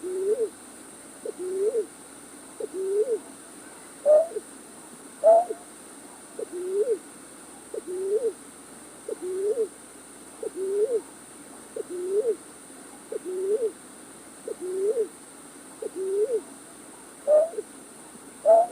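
A night bird's call played as a trapping lure recording: a short rising, hooked hoot repeated about every 1.3 seconds, a few of the notes pitched higher than the rest.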